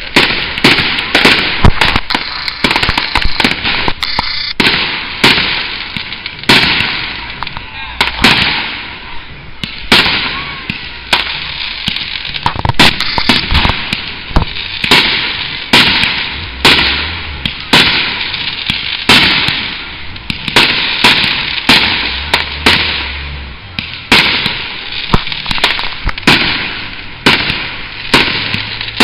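Fireworks display: aerial shells bursting in a steady string of sharp bangs, about one or two a second, with crackling hiss between the bursts.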